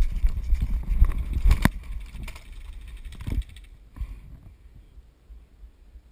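A player running with body-worn gear, footsteps and kit knocking and rubbing against the microphone, with a sharp knock about one and a half seconds in; the movement dies down after about three and a half seconds.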